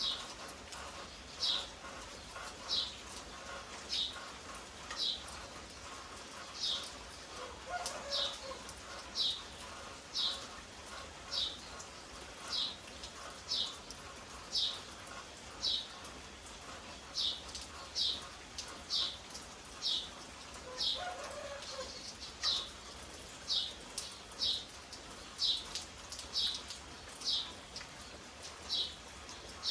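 A bird calling over and over with a short, high, falling note about once a second. A fainter, lower call comes twice, about 8 and 21 seconds in.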